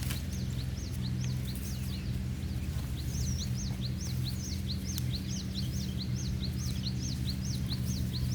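A bird chirping over and over, about three short rising-and-falling calls a second, over a steady low hum.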